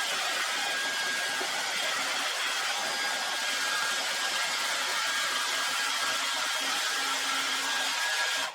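Handheld hot-air blower running steadily with a thin whine, used to soften sticker adhesive, switched off abruptly at the end.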